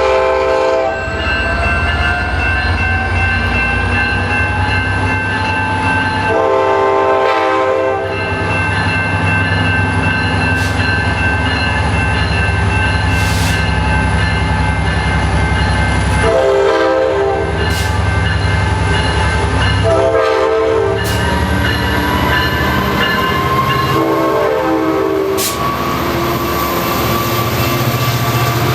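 Amtrak Pacific Surfliner diesel locomotive 456 (an EMD F59PHI) sounding its K5LA air horn in separate blasts about a second or two long. The engine runs under power beneath the horn, its pitch slowly rising, with sharp clicks of the wheels over the rail.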